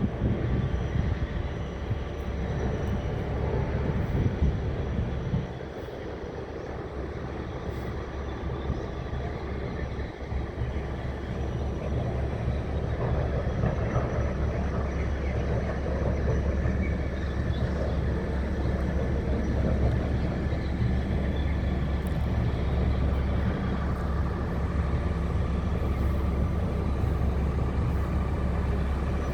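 Large Hitachi 870 excavator's diesel engine running steadily. It eases off about five seconds in and builds up again from about ten seconds.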